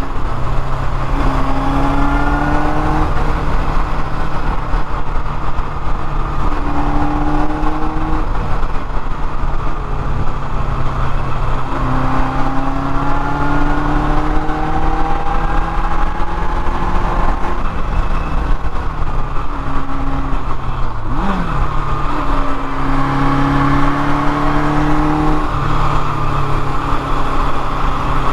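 1979 Kawasaki KZ650SR's air-cooled inline-four engine under way, climbing in pitch as it accelerates through the gears four times, the pitch dropping back at each shift.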